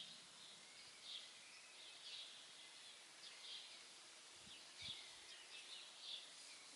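Faint songbird chirps, short high calls repeating about once a second, over a steady soft hiss.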